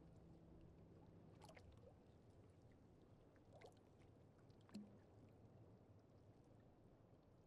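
Near silence: faint water ambience with a few soft drips, while a low held tone fades out in the first second and a half.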